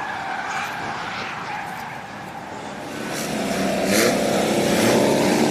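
Drift car engine revving on track, growing louder over the last couple of seconds as the car comes closer, with a brief burst of hissing noise about four seconds in.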